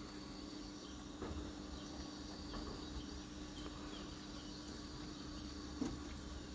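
Steady outdoor background of insect-like buzzing and hum, with faint short chirps scattered through it and one sharp knock about six seconds in.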